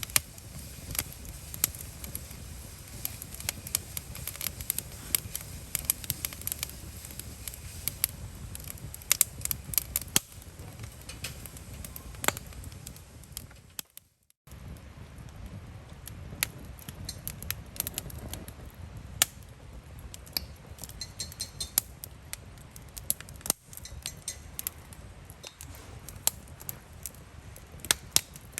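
Wood campfire crackling: irregular sharp pops and snaps over a low steady rumble, cutting out briefly about halfway through.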